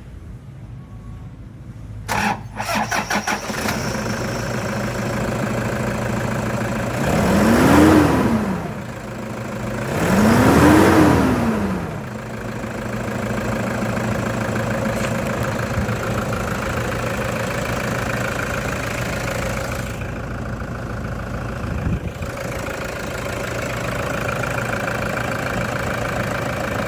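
2015 Toyota Hilux engine cranked and starting about two seconds in, then idling, revved up and back down twice in quick succession, and settling to a steady idle.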